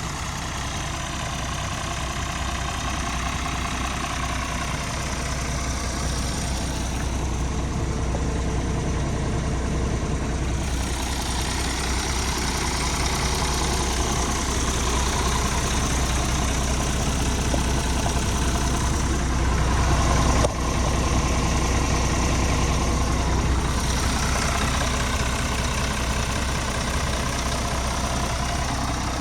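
Scania R450 Euro 6 tractor unit's diesel engine idling steadily, growing slightly louder, with a brief break in the sound about twenty seconds in.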